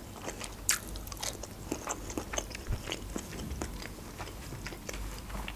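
A person chewing a mouthful of broccoli close to the microphone: irregular crunches and wet mouth clicks.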